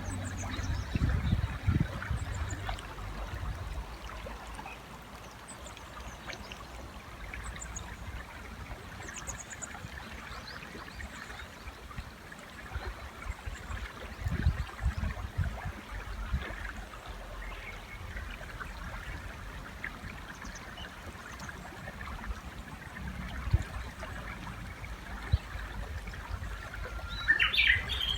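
River water flowing steadily, with faint high chirps of small birds scattered through it. Near the end a Japanese bush warbler starts to call: a held note that jumps up into a run of quick repeated notes.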